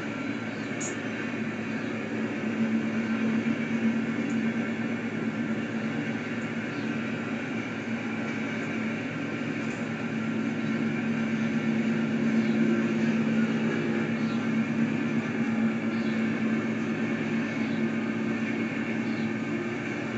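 Union Pacific coal train rolling through a crossing: a steady rumble of wheels on rail that swells and eases a couple of times.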